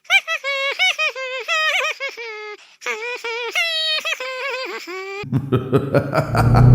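A very high-pitched, childlike cartoon voice babbling and giggling in short bursts. About five seconds in it stops abruptly and a motor vehicle engine starts and revs, its pitch rising steadily, with clicking over it.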